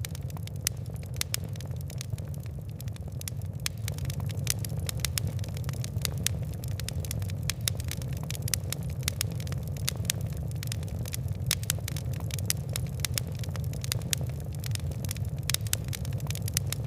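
Fire crackling: many sharp, irregular pops and ticks over a steady low rumble of burning.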